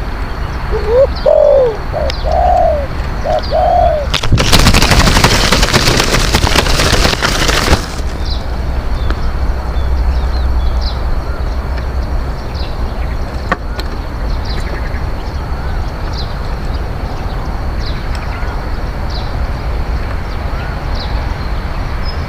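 Spotted dove cooing a short phrase of arched notes, followed by about three and a half seconds of loud rushing noise. Faint high chirps repeat throughout over a steady low rumble.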